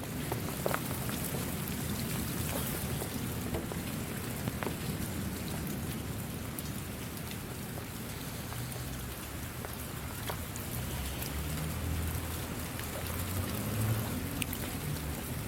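Steady rain falling, an even patter with scattered single drops standing out, and a low rumble swelling in the last few seconds.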